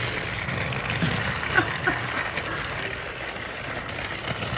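Battery-powered Thomas and Friends TrackMaster toy train running on plastic track, its small motor whirring steadily with a light rattle. A few short squeaky sounds come about a second and a half in.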